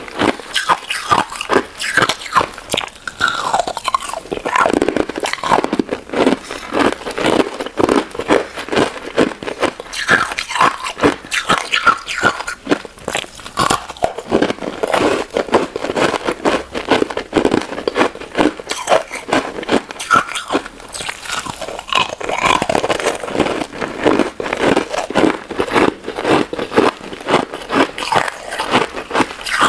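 Close-miked crunching and chewing of a crunchy crystal ice dessert: many rapid crisp bites, one after another without pause.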